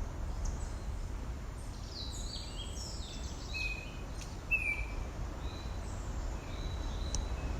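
Birds calling: a run of short, high chirps and falling whistled notes in the middle stretch, over a steady low rumble.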